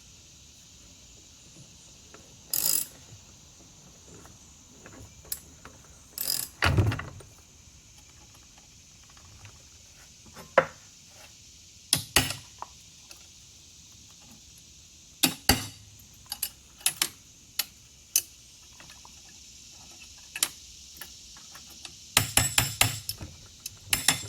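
Irregular metal clicks and clanks of hand tools working a strut coil spring compressor, with a quick run of ratchet-like clicks near the end.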